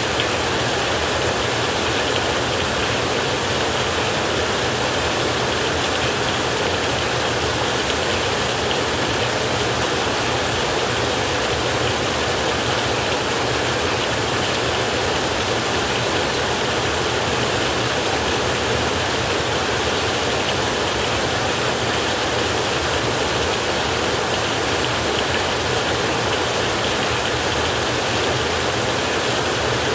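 Steady heavy rain: a dense, even hiss that holds unchanged throughout.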